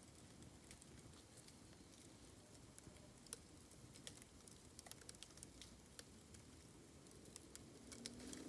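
Bamboo burning in an open campfire, crackling faintly with scattered sharp pops. A faint low tone comes in near the end.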